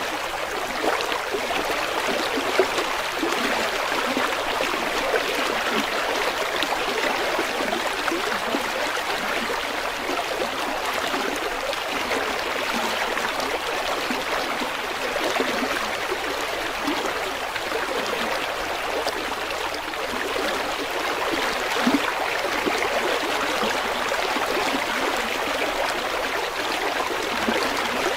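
Shallow river water flowing and babbling over stones, a steady rushing with small splashes and gurgles throughout.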